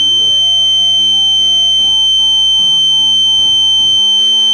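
System Sensor L-Series P2WL horn strobe sounding its 3 kHz continuous tone: a single loud, unbroken high-pitched tone. Background music plays faintly underneath.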